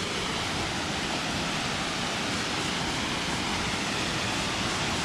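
Steady rush of water from a waterfall and the creek below it, an even hiss that holds level throughout.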